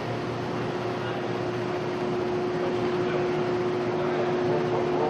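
Steady mechanical hum with one constant droning tone over an even rush of noise.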